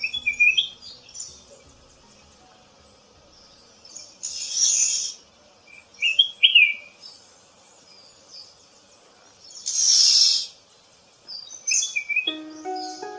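Birds calling: scattered short chirps and whistled notes, and two longer harsh, raspy calls, one about four seconds in and one about ten seconds in. Music with clear sustained notes comes in near the end.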